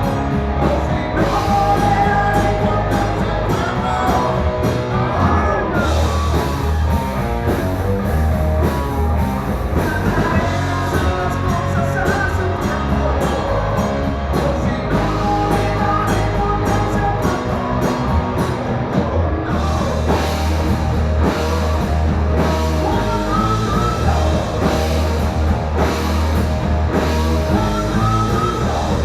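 A rock song with a sung lead vocal over electric guitar, bass and a drum kit, played at a steady loud level.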